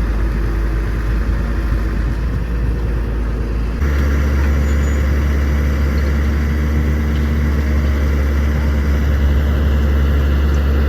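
Heavy vehicle engine running steadily at a low idle. About four seconds in, the engine sound changes abruptly to a louder, deeper hum.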